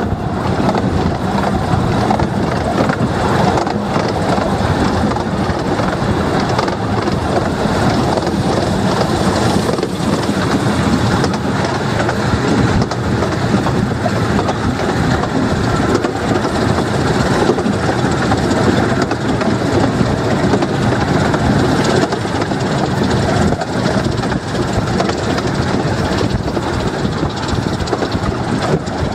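15-inch gauge steam-hauled train running along the line, heard from an open passenger carriage: a steady rumble and clatter of wheels on rails.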